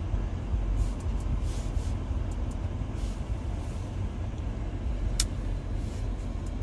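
Steady low rumble inside the cabin of an Audi SQ7 idling with its 4.0-litre V8. There are a few faint taps and one sharp click about five seconds in from presses on the MMI touchscreen.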